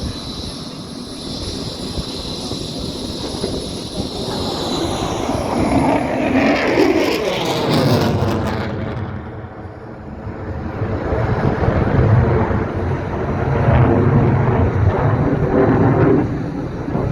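F-35 Lightning II jet's single turbofan engine in a flypast. A loud roar with a high whine swells, sweeps in pitch as the jet passes about seven or eight seconds in, then gives way to a heavy low rumble that peaks again before dropping away near the end.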